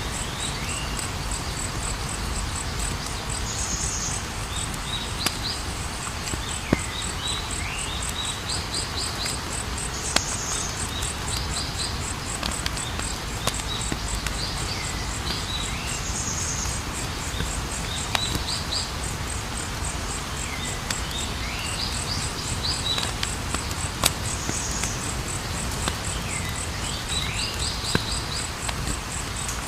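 Campfire burning with occasional sharp pops over a steady low rush, against a steady high trilling of crickets and a chirping call that repeats about every six seconds.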